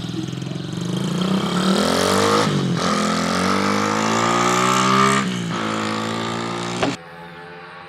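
125cc single-cylinder four-stroke pit bike engine accelerating hard under load, its pitch climbing through the gears. The pitch drops sharply twice at upshifts, about two and a half and five seconds in, then climbs again. The sound cuts off suddenly near the end.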